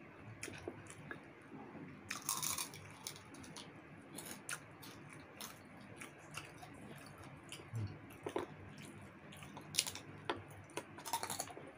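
Close-up eating sounds: chewing and crunching of crispy chicken skin, with scattered small clicks and crackles of fingers picking at roast chicken. A louder crackly crunch comes about two seconds in.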